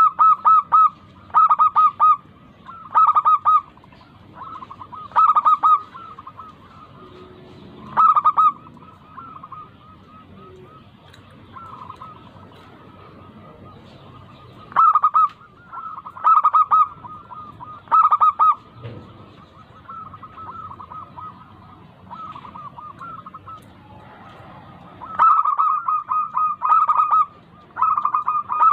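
Zebra doves (local perkutut) cooing: short bursts of rapid staccato coo notes, repeated every second or two, with fainter cooing from other doves between them. The loud bursts thin out for several seconds in the middle and return near the end.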